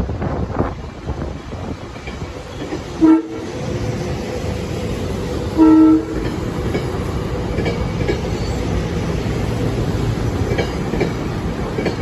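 A SEPTA Regional Rail train sounds its horn twice, a short blast about three seconds in and a slightly longer one near the middle, as it passes with a steady rumble and wheels clicking over the rail joints.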